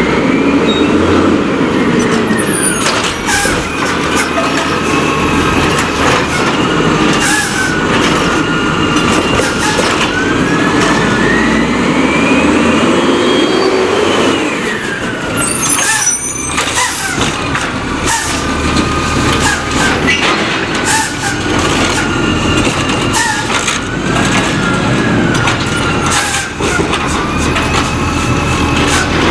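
Condor garbage truck with a Curbtender rear-loader body at work: the diesel engine repeatedly revs up and falls back, several seconds each time, while the packer runs. There are sharp air-brake hisses and metal clanks between the revs.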